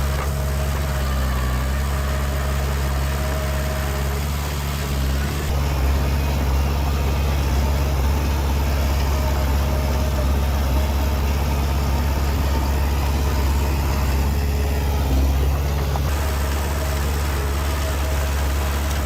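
The diesel engine of an earthmoving machine running steadily, a little louder from about five seconds in.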